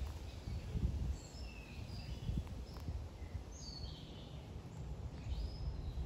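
Small birds chirping, short high calls and quick gliding notes scattered throughout, over a steady low rumbling background noise.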